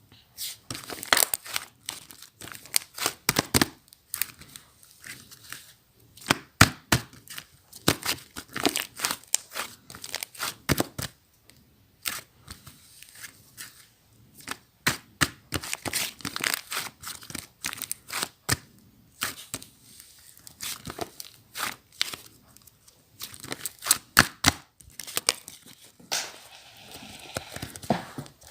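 Slime being pressed, folded and squeezed by hand, with trapped air giving off irregular clusters of sharp crackling pops and clicks and short pauses between handfuls.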